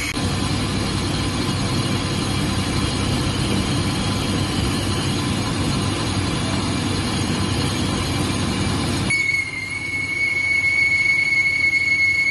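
Lathe cutting a disc brake rotor: a steady metallic grinding and scraping from the tool on the spinning rotor, then, after an abrupt change about nine seconds in, a steady high-pitched squeal of the tool on the rotor face.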